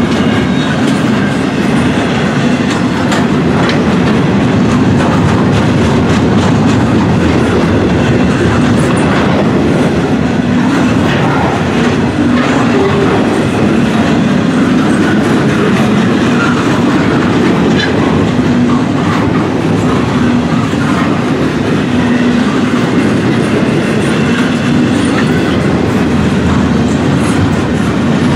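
Cars of a Norfolk Southern intermodal freight train rolling past: a steady rumble of steel wheels on rail, with scattered clicks as the wheels cross rail joints.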